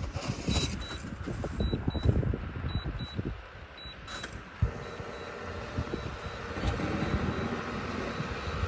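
High electronic beeps in quick pairs, repeating about once a second and stopping about four seconds in, over uneven low rumbling and thumps. A steady low hum follows.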